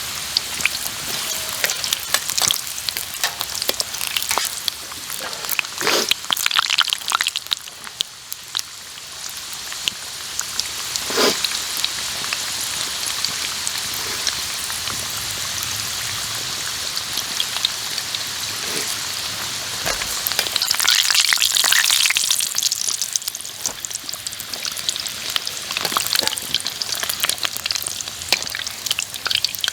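Food frying in hot oil, a steady sizzle full of small crackling pops. The sizzle swells louder for a couple of seconds a little past two-thirds of the way through.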